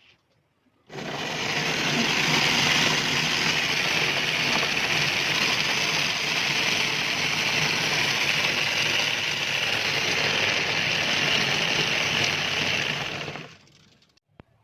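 Homemade electric scooter's 300 W electric motors running at a steady speed, with a steady whir. It starts abruptly about a second in and cuts off about a second before the end.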